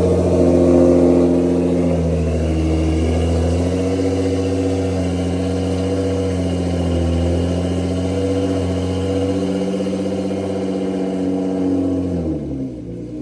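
The newly swapped twin-turbo V6 of a Nissan GT-R running at a raised idle, its pitch wavering slightly; about twelve seconds in the revs drop and it settles to a lower idle.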